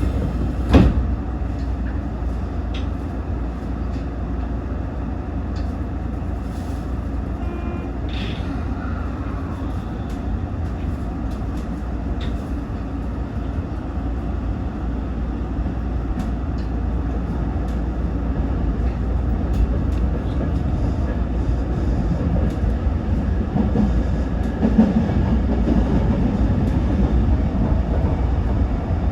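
Toyo Rapid Railway 2000 series electric train pulling out and running, heard from inside: a steady rumble of wheels and motors that grows a little louder toward the end. There is a sharp knock about a second in.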